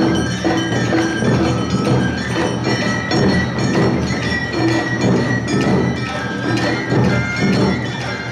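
Awa odori festival band playing: drums and the clanging kane hand gong beat a steady rhythm, with a high note held through the middle.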